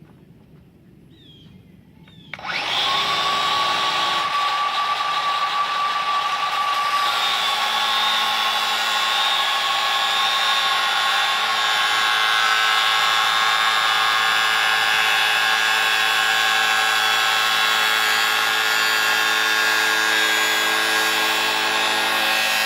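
Grinder starting about two and a half seconds in and running steadily with a high whine as it cuts into the plastic case of a lithium battery pack.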